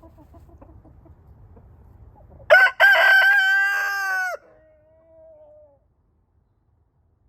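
A rooster crows once, about two and a half seconds in: a short opening note, then a long, loud held note, with a fainter drawn-out note trailing after it. Chickens cluck faintly before the crow.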